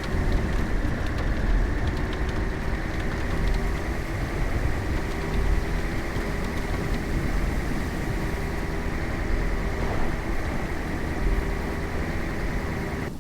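Steady engine and road noise of a vehicle being driven, a constant low rumble with no sudden events.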